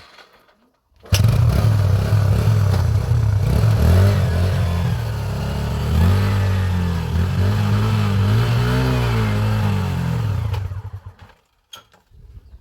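Motorcycle engine running loud, coming in suddenly about a second in, its revs rising and falling several times before the sound dies away near the end.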